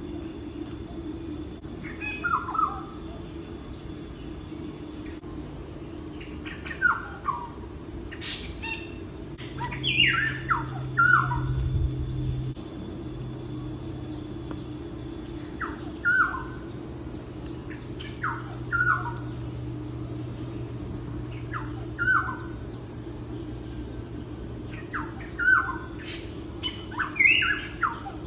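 Birds chirping: short, quick downward-sliding chirps repeated every couple of seconds, over a steady background hum.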